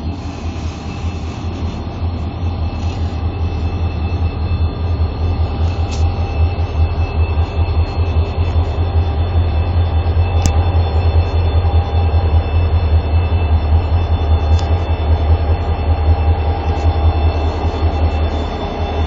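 Diesel-electric freight locomotive engines revving up: a loud, low engine note that builds over the first several seconds and then holds at high power.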